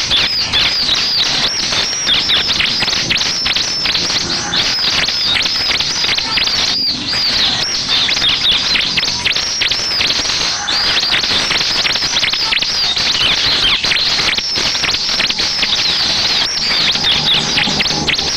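Bar-winged prinia (ciblek) singing a fast, unbroken chatter of rapid, high notes that each sweep downward.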